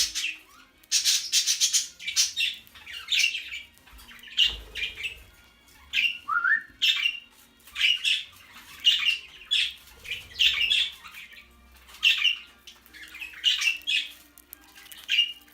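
Budgerigar giving harsh squawking calls, one short call every half second to second, with a brief rising chirp about six seconds in.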